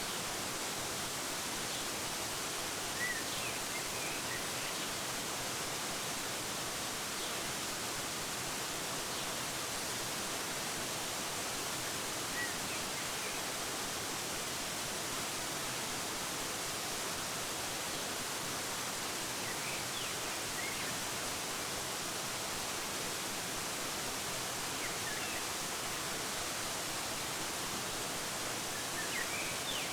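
Steady rushing of a waterfall, with a few faint, short bird chirps scattered over it.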